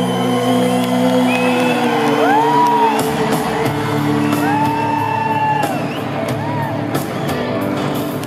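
Live band playing an instrumental passage in a large arena: sustained keyboard chords, with drums entering about three seconds in. Audience whoops and whistles rise and fall above the music.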